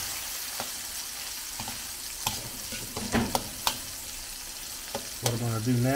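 Giant freshwater prawns sizzling and frying in a stainless steel wok, with a steady hiss and several sharp clicks of a metal utensil against the pan. A man's voice starts near the end.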